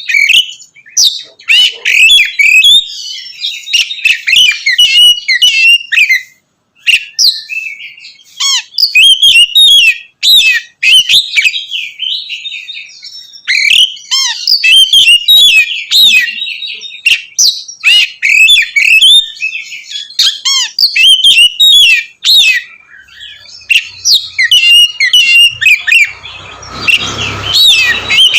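Oriental magpie-robin (kacer) singing continuously: a fast, varied string of loud whistles and chirps with short pauses, the clear ringing 'ngeplong' style. A low rumbling noise sits underneath near the end.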